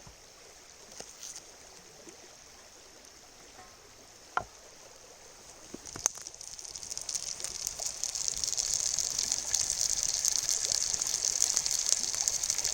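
Vegetables sizzling in olive oil in a pan over a campfire: a crackling hiss that starts about six seconds in and swells louder, after a single sharp knock a little earlier.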